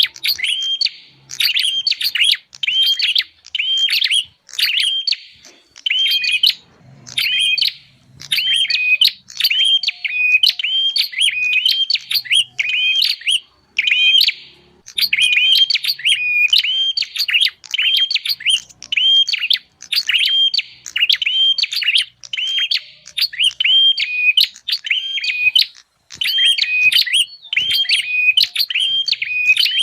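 Prinia (prenjak) calling: sharp, rapidly repeated chirps, about two to three a second, in runs broken by short pauses, played as a bird-trapping lure call.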